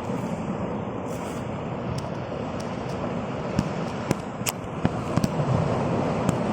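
Steady rushing noise of wind and water, with about six sharp clicks or knocks in the second half.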